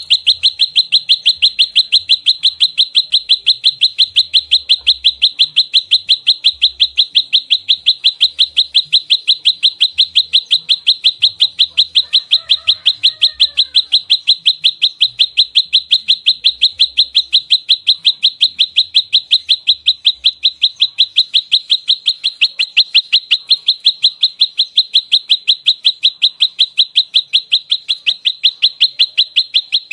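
Prenjak lumut (a small Indonesian prinia-type warbler) giving its rapid 'fighting' call: an unbroken run of sharp, high, identical notes repeated about five or six times a second, starting abruptly and holding steady.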